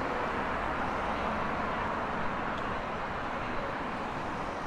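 Steady city street ambience dominated by the hiss and hum of passing road traffic.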